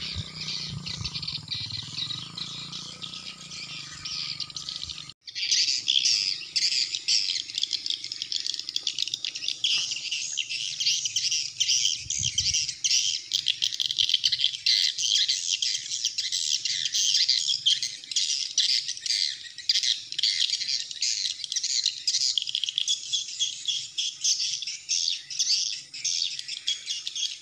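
Swiftlet calls: a dense, nonstop chorus of high twittering chirps that comes in loudly about five seconds in, after a brief dropout. Before that the chirping is fainter, over a low rumble.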